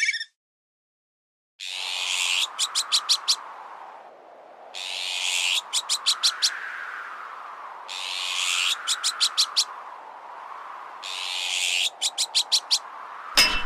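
Looped azure-winged magpie alarm call, a harsh rasping note followed by about five quick sharp notes, repeating about every three seconds over gusting wind. Near the end comes a single sharp metallic clang with a short ring.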